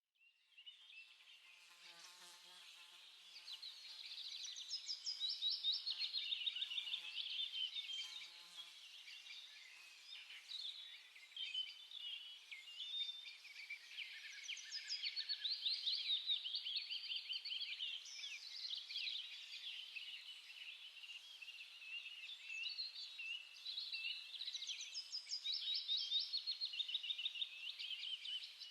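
Small songbirds chirping and trilling, many quick overlapping notes and rapid repeated runs, fading in over the first few seconds.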